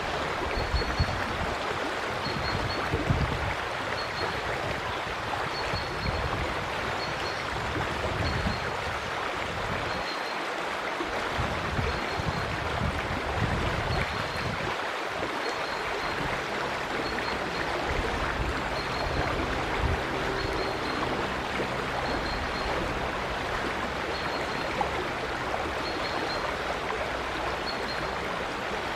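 River water flowing steadily, with a faint high chirp repeating about once a second.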